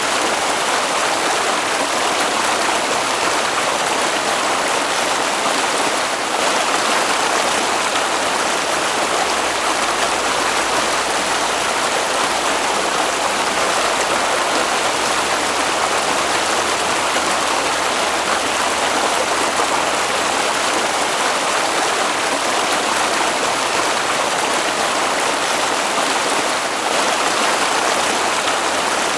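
Flowing stream water, a steady rushing hiss.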